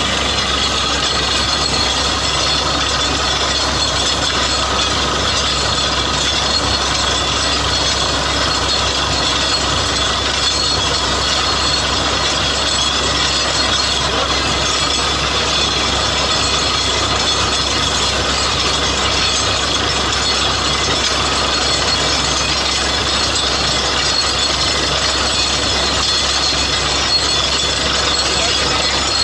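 Borewell drilling rig running steadily and loudly, a continuous mechanical noise of the drilling machinery that does not change.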